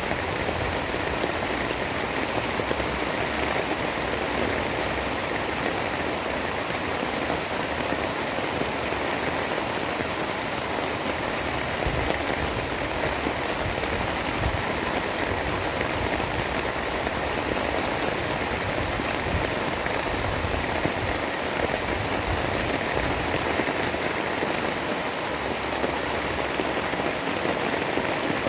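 Steady, dense rain falling, an even hiss with no thunder or other distinct events.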